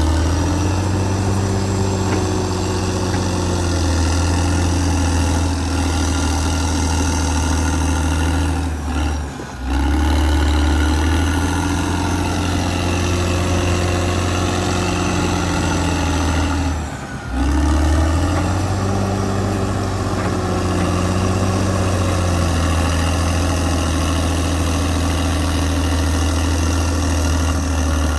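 Caterpillar D6R XL bulldozer's diesel engine running steadily, its pitch shifting slightly. The sound briefly dips twice, about 9 and 17 seconds in.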